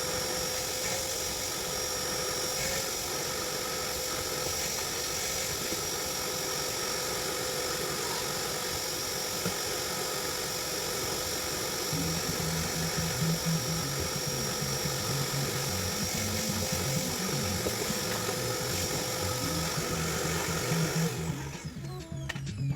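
A steady motor whine with a constant high tone runs without a break; music with a bass line joins about halfway through, and the motor noise cuts off suddenly near the end, leaving the music.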